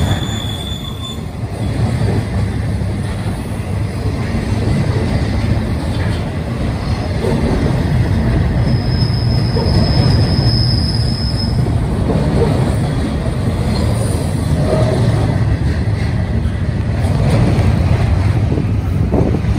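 Double-stack intermodal freight train's well cars rolling past close by: a steady rumble of steel wheels on rail. A thin wheel squeal sounds in the first second, and another lasts about three seconds around the middle.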